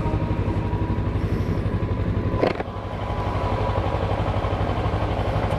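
Kawasaki ER-6n's parallel-twin engine running under way, heard from on the bike, with a brief click and short dip in engine sound about two and a half seconds in before it picks up again.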